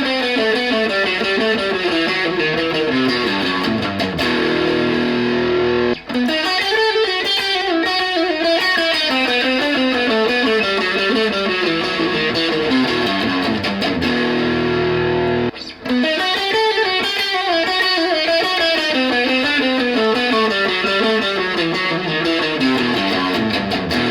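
Ibanez GRG320FA electric guitar with Infinity R humbucking pickups, played in fast descending note runs that settle onto held notes. The phrase repeats three times, with a brief break about six seconds in and again around fifteen seconds.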